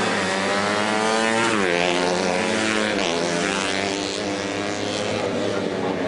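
Racing motorcycle engines revving hard as bikes race past, several engines at once. The pitch drops sharply about a second and a half in and again at about three seconds, then climbs again.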